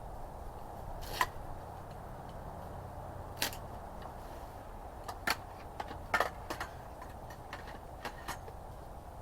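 Scattered sharp clicks and light snaps, a handful spread irregularly with a small cluster about six seconds in, over a low steady rumble.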